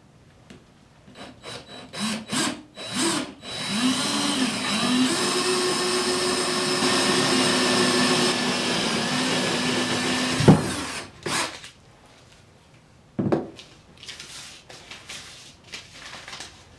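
Power drill boring a hole into a wooden tabletop: a few short trigger pulses with the motor pitch rising, then a steady run of about six seconds that stops abruptly about ten and a half seconds in. A single knock and light handling noises follow.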